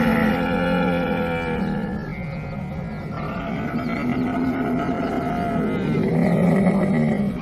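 Camel calling: a long, drawn-out pitched call that eases off about two seconds in, swells again, then drops away abruptly.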